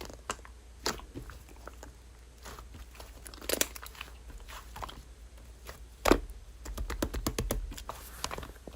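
Slime being pressed and worked by hand, giving scattered sharp clicks and crackles, with a louder pop about six seconds in and denser crackling after it.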